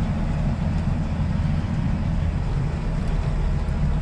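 Semi truck's diesel engine running at a steady low rumble.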